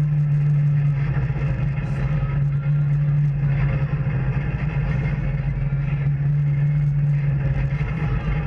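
Off-road vehicle engine running at a steady speed, a constant low drone with no revving.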